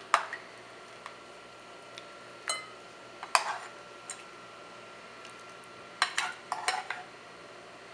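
A serving ladle clinking and knocking against a pot and bowl as curry soup is served: a few separate knocks, one leaving a steady metallic ring for a few seconds, then a quick run of knocks near the end.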